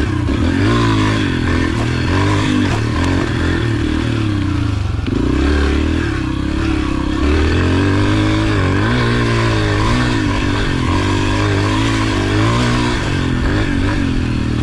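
Yamaha TT-R125's single-cylinder four-stroke engine under way off-road, its pitch rising and falling repeatedly as the throttle is worked.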